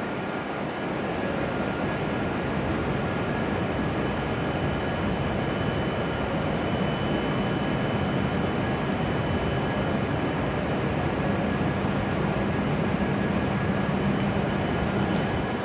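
An E7 series shinkansen standing at the platform with its doors open, its onboard equipment running with a steady hum and hiss. A low hum grows a little stronger in the last few seconds.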